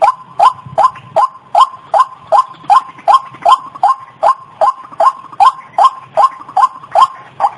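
White-breasted waterhen (ruak-ruak) call played as a lure: a short, rising croaking note repeated steadily about two and a half times a second, ending near the end.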